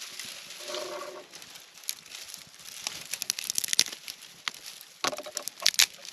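Dry material crackling and snapping: a run of sharp crackles and snaps, loudest a little under four seconds in and again near the end, with a brief pitched sound about a second in.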